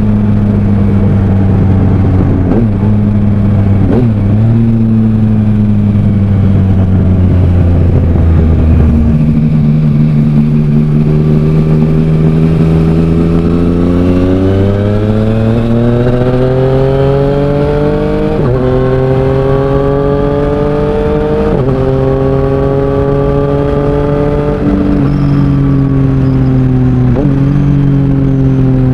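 Yamaha Tracer 900's 847 cc inline three-cylinder engine through a Mivv Oval titanium exhaust, under way. Its pitch falls at first, then climbs steadily under acceleration for several seconds, then changes abruptly about four times at gear changes.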